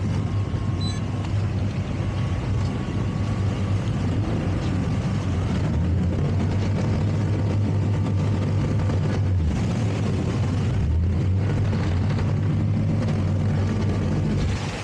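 Towboat's engine running steadily under way, its pitch shifting slightly as the boat manoeuvres.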